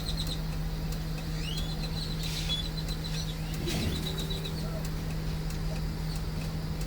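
Bus diesel engine running steadily with a low, even hum while the bus is maneuvered into place, with small birds chirping faintly over it.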